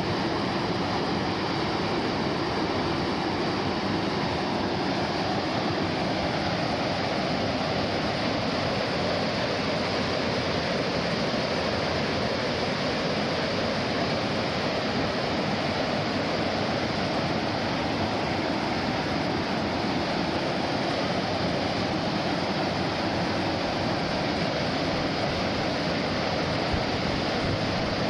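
Steady rushing of falling water, even and unbroken.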